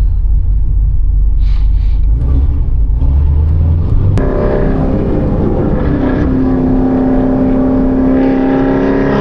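Chevrolet Camaro ZL1's supercharged V8 under throttle on the highway: a deep rumble for about four seconds, then a sharp click and the engine note jumps to a higher, steady pitch.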